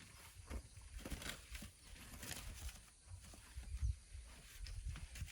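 Irregular scraping and crunching of hand shovels digging into sand, roughly once a second, over a gusty low rumble of wind on the microphone.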